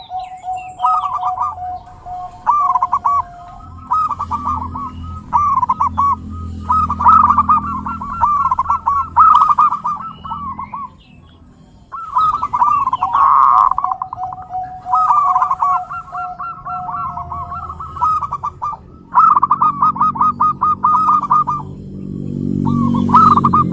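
Zebra doves (perkutut) cooing: quick bubbling phrases repeated one after another with short pauses, with a low steady hum underneath.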